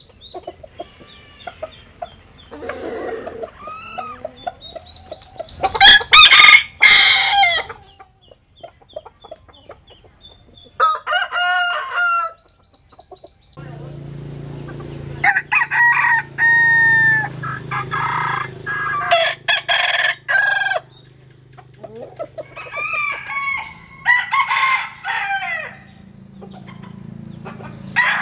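Bantam roosters crowing again and again, several crows in turn, the loudest about six seconds in, with clucking between. A low steady hum comes in about halfway through.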